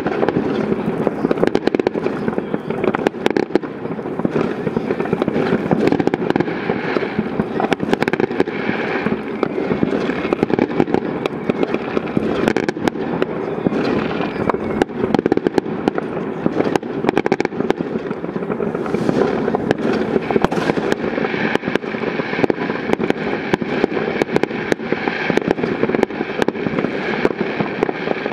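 Fireworks going off in a continuous barrage: many overlapping bangs and crackles with no pause.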